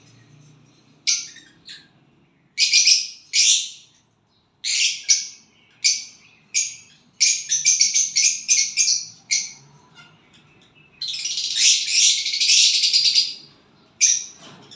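Small bird chirping and singing in short high-pitched bursts, with a quick run of chirps around seven seconds in and a longer unbroken chattering song around eleven to thirteen seconds.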